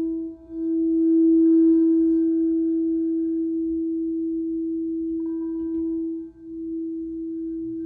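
Singing bowl holding one steady, sustained tone with fainter overtones above it. The tone briefly drops out and swells back in twice, just after the start and about six seconds in.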